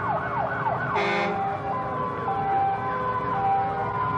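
Fire engine sirens sounding in a passing parade: a fast yelping siren, a short horn blast about a second in, then a two-tone siren switching back and forth between two pitches.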